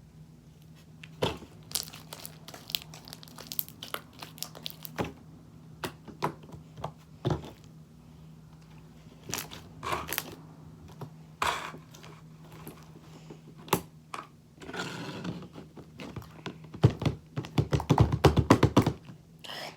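Very sticky slime being worked by hand with laundry detergent (Tide) mixed in as activator to fix its stickiness: scattered sticky clicks and crackles as it is pulled and squeezed, ending in a quick run of loud pops and squelches. A faint steady low hum runs underneath.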